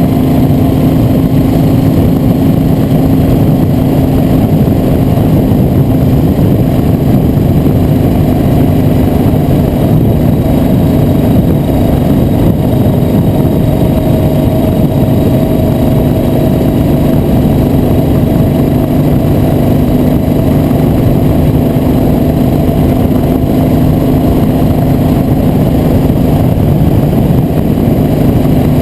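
Vehicle on the move: an engine running at a steady, unchanging speed under a continuous loud rush of wind and road noise.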